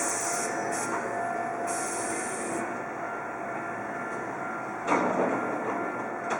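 Hankyu Senri Line train moving through the station: steady wheel-and-rail noise with a faint held whine, short high hissing bursts in the first three seconds, and a sudden louder clatter about five seconds in.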